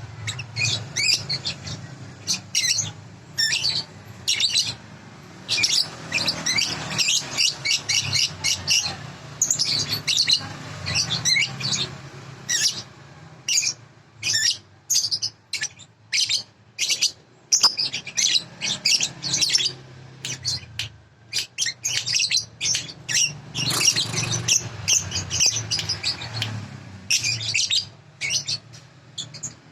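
Small birds chirping and twittering in quick bursts of high notes, one burst every second or so, over a low steady hum. This is a 'masteran' bird-song tutor recording played for young lovebirds to learn from.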